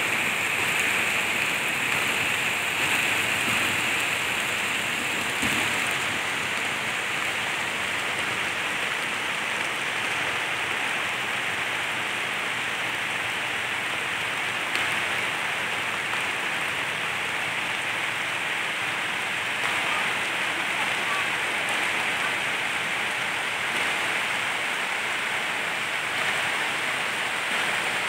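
Heavy rain pouring onto a pond's open water and the surrounding grass: a dense, steady hiss that holds even throughout.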